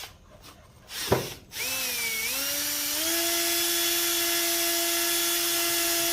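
Electric drill spinning a Scotch-Brite pad inside a Poulan 5200 chainsaw cylinder, scouring off aluminium transferred from the old piston. After a brief burst about a second in, the drill's whine starts and wavers in pitch as it comes up to speed. It then holds a steady pitch from about three seconds in.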